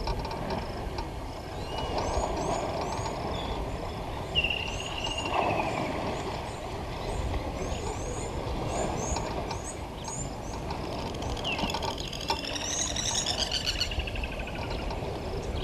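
Wild birds calling: short high chirps repeated throughout, a falling whistle about four seconds in, and a longer rippling call near the end, over steady low background noise.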